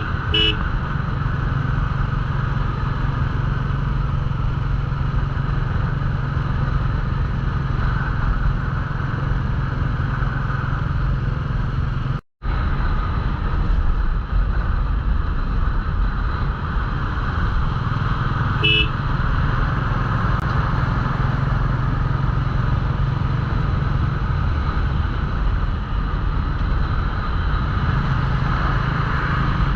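Royal Enfield Classic 350 single-cylinder engine running steadily at cruising speed, with wind and road noise over the microphone. A vehicle horn gives short beeps at the very start and once more about two-thirds through, and the sound cuts out for a split second about 12 s in.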